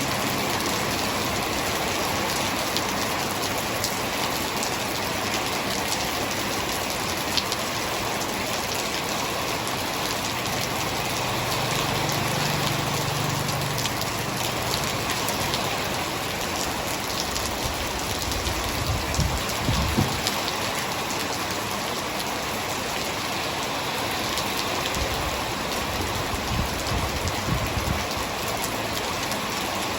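Hard rain falling steadily: a dense, even hiss of many drops striking surfaces. A few brief deep rumbles come through about two-thirds of the way in and again near the end.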